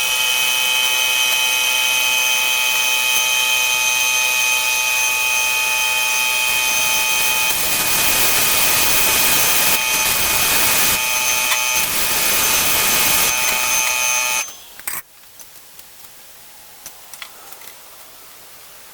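An electric power tool runs at a steady high whine for about fourteen and a half seconds, then stops suddenly. From about 7 to 13 seconds in it turns harsher and noisier, as it bites into material.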